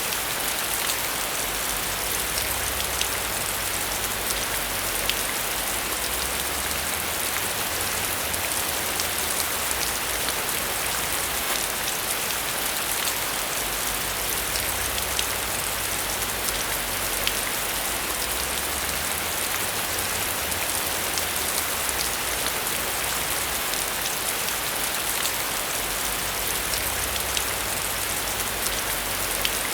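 Steady rain falling: an even hiss dotted with many small drop ticks, over a faint low rumble that comes and goes.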